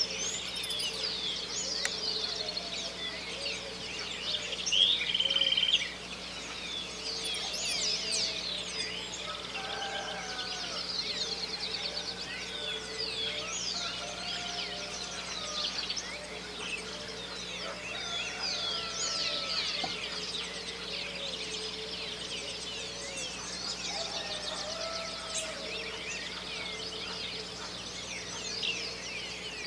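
Dawn chorus of many small birds chirping and whistling over one another without pause, with a louder call about five seconds in. Lower calls from domestic chickens clucking are heard among them.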